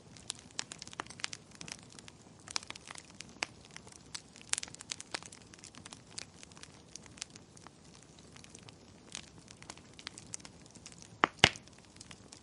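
Wood fire crackling in a fireplace: irregular sharp pops and snaps over a faint hiss, with two loud pops close together about eleven seconds in.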